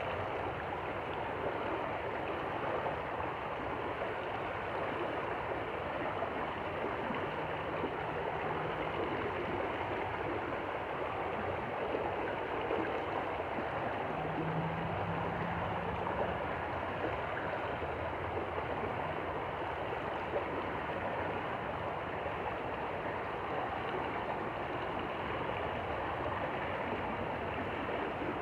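Stream water flowing steadily. Its rush is even and unbroken throughout.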